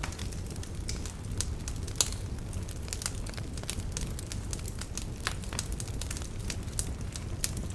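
Wood fire burning in a fireplace: logs crackling and popping irregularly over a low, steady rumble of the flames, with one sharper pop about two seconds in.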